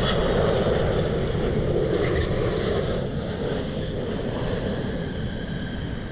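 Jet aircraft engines rumbling as the plane passes: loudest in the first few seconds, then slowly fading.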